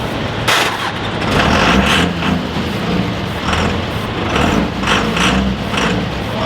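A pulling vehicle's heavy engine running unevenly, with repeated short hissing bursts every half second or so.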